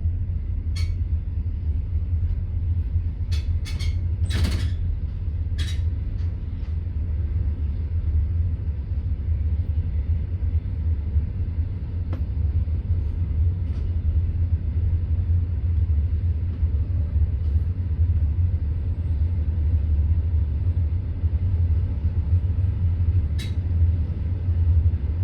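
Passenger railway carriage in motion, heard from inside the coach: a steady low rumble of the wheels and running gear. A few sharp clicks and creaks stand out, several bunched together around four seconds in and one more near the end.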